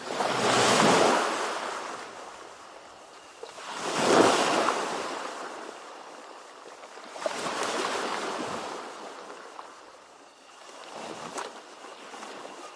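Ocean waves washing in, four swells that each rise and fade back, about every three and a half seconds.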